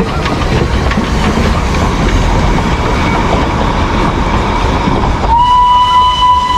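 Darjeeling Himalayan Railway toy train rumbling close by, then about five seconds in its whistle sounds: one long steady high note.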